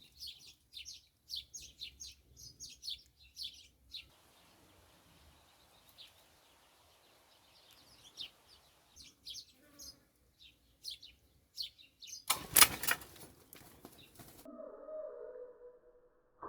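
Small songbirds chirping in quick, repeated short calls for about twelve seconds. Then comes a loud rushing burst lasting about two seconds, followed by a quieter low steady tone.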